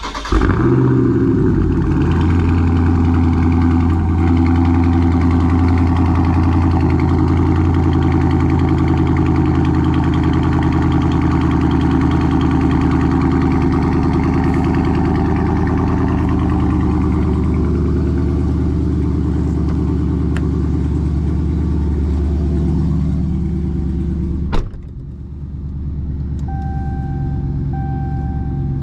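A Dodge Charger Daytona 392's 6.4-litre HEMI V8 starts with a brief rev flare, then idles loud and steady. About 24 seconds in there is a click, and the sound drops suddenly to a quieter idle. Near the end an electronic chime beeps repeatedly.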